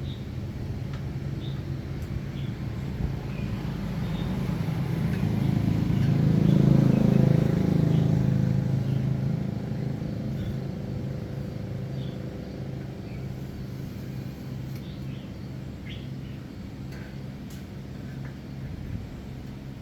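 A motor vehicle's engine humming steadily, growing louder to a peak about seven seconds in and then slowly fading, as it passes by. Birds chirp faintly now and then.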